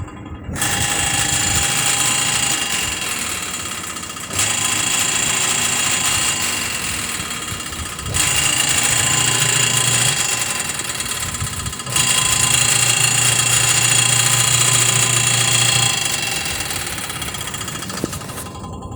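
Panasonic automatic washing machine in its spin-dry cycle, making a noisy, metallic running sound that surges up suddenly about every four seconds and then fades. The repairman traces the noise to the machine's gearbox. The sound drops out briefly near the end.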